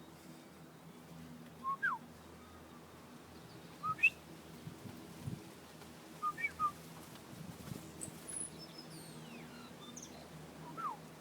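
Birds whistling: short clear whistled notes every couple of seconds, several sliding down in pitch, with fainter high chirps near the end.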